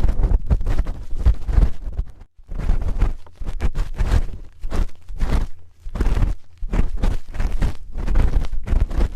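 Metal spoon rubbing, scraping and tapping right against the microphone for ASMR ear cleaning: a dense run of close scratchy rubs and clicks, with a short break about two seconds in.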